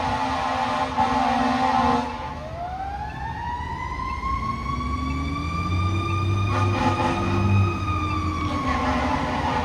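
Fire engine siren sounding as the truck responds: a dense, steady blare at first, then from about two seconds in a wailing tone that winds slowly up in pitch, holds, and falls away, before the steady blare returns near the end.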